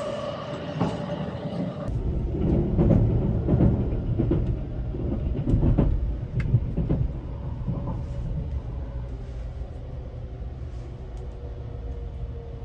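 Sunrise Express sleeper train running, heard inside the car: a steady low rumble that swells about two seconds in, with a few sharp clacks over the next few seconds, then settles to an even running rumble.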